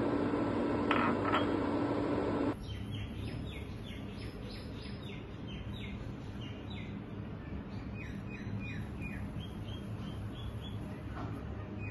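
A small bird chirping over and over, a quick run of short, falling chirps, after a steady hum that cuts off about two and a half seconds in.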